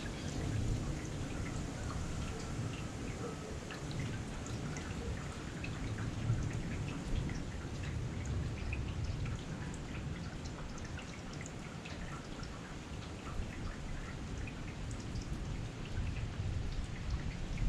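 Heavy rain falling steadily, with many individual drops ticking sharply on a surface over a low rumble.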